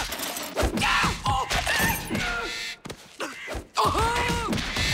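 Cartoon fight sound effects: a flurry of thumps and knocks mixed with short squawking bird calls from mockingbirds, and a longer held cry about four seconds in.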